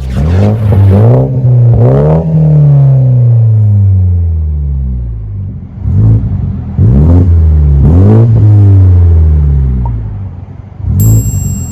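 2019 BMW 330i's 2.0-litre turbocharged four-cylinder revving through a Kinney's Street Demon aftermarket performance exhaust. It gives two revs with a long fall back toward idle, then three quick blips in a row and another rev near the end.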